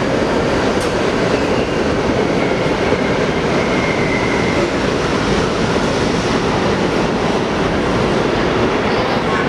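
New York City Subway R46 train running on the rails, a loud steady rumble of wheels and track, with a faint wheel squeal for about a second, some four seconds in.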